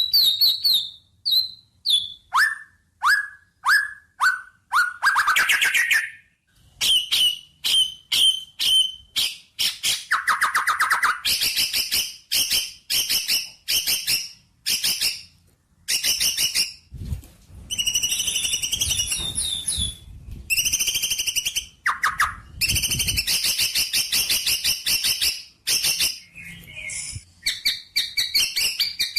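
Songbird singing close up: a fast, varied run of short chirps, whistled notes, pitch glides and trills in quick phrases.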